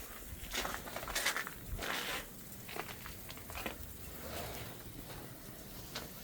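Footsteps crunching in fresh snow, a series of irregular steps.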